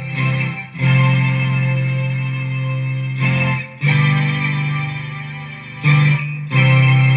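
Electric guitar played through a BOSS SY-200 synthesizer pedal, giving sustained synth notes. A new note or chord is struck every second or two, with short breaks between.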